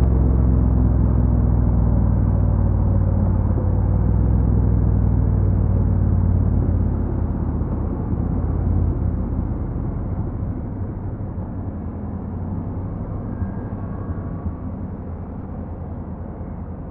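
Honda NC750X's parallel-twin engine running with a steady low drone that weakens and fades over the second half.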